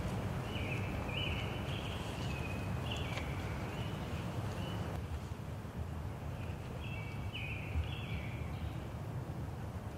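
A bird singing in the woods: two phrases of short whistled notes that step up and down in pitch, about half a second in and again about seven seconds in, over a steady low background noise.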